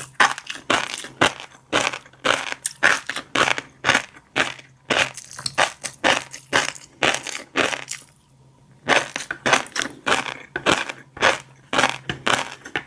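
Close-miked chewing of a mouthful of fish roe, the eggs crunching and popping between the teeth in quick strokes, about three to four a second, with a pause of about a second partway through.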